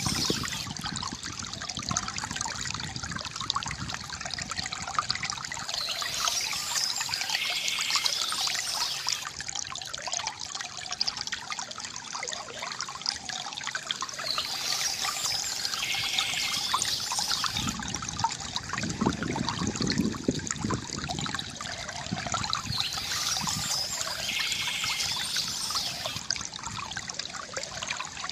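River water gurgling and trickling steadily, with a deeper gurgle about two-thirds of the way through. Soft bird chirps recur about every eight seconds.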